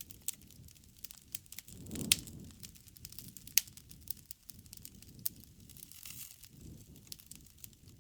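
Campfire crackling, with irregular sharp pops over a low rumble of flame; the loudest pops come about two seconds in and again about a second and a half later.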